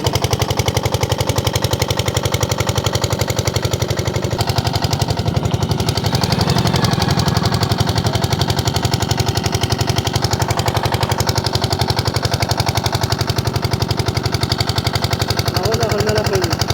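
A small engine or motor-driven machine running steadily, with a fast, even pulsing beat.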